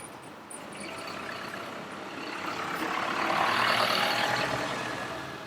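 A road vehicle passing close by in street traffic, its noise swelling to a peak about three and a half seconds in and then fading away.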